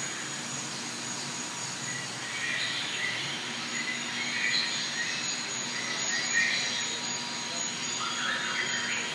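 Small birds chirping in short, scattered calls over a steady background hiss in an indoor rainforest exhibit.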